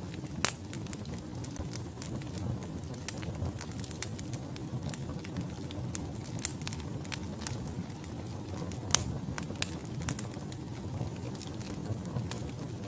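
Logs burning in a fireplace: a steady low rumble of flame with irregular sharp crackles and pops, a louder pop about half a second in and another about nine seconds in.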